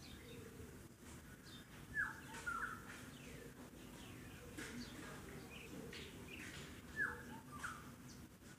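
Faint bird calls: a falling chirp about two seconds in and again about seven seconds in, with short, high chirps between them, over a low steady hum.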